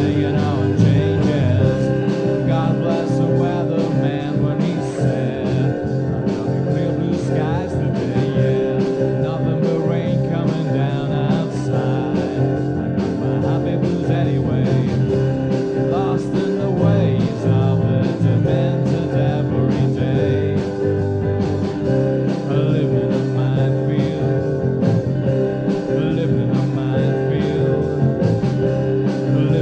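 A band playing a rock-styled song with a steady drum beat and sustained instrumental tones, with no clear words sung.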